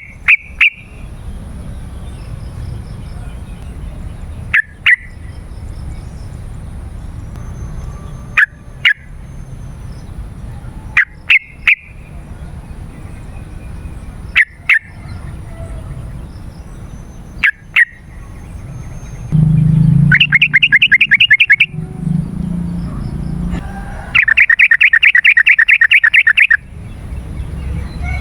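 Yellow-vented bulbul (trucukan) singing: short, sharp call notes every three or four seconds, then two fast chattering rattles of rapidly repeated notes, the second the longer at about two seconds, over a low background rumble.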